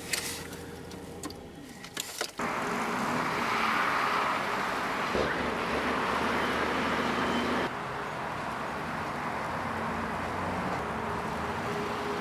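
A car running: a steady noise that starts abruptly about two seconds in and drops a little in level near the end, with a few faint clicks before it.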